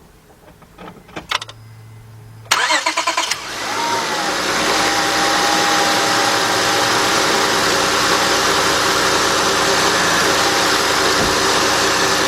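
2003 Honda Accord's 3.0 V6 starting: after a few clicks, the starter cranks briefly, the engine catches about three seconds in with a short flare in revs, then settles into a steady idle. With a new serpentine belt and idler pulley fitted, it runs without belt squeal and sounds great.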